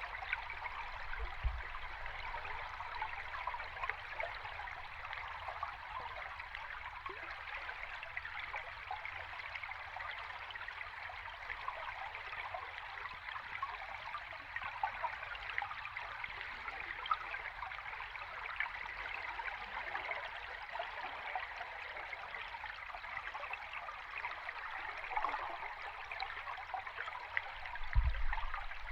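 Stream water flowing and bubbling, heard underwater: a steady babble, with a low thump about a second and a half in and a louder one near the end.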